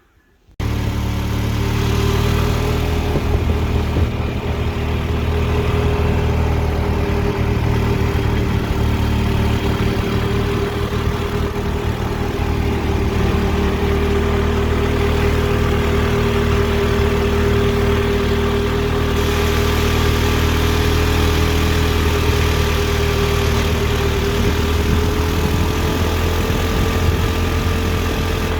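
A motor vehicle's engine running steadily at an even pitch, cutting in abruptly about half a second in.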